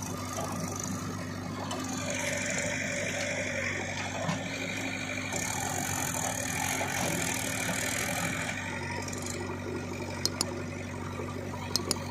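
A heavy machine's engine running steadily, with a few sharp clicks near the end.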